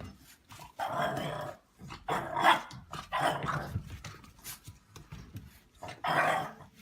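A dog vocalising in about four short, rough bursts spread over several seconds.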